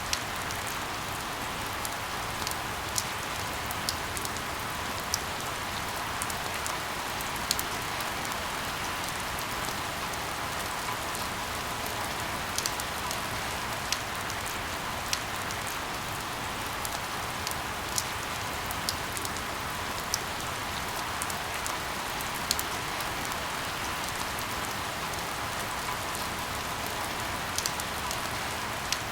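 Steady rain falling on a surface: an even hiss with scattered sharp ticks of individual drops striking close by.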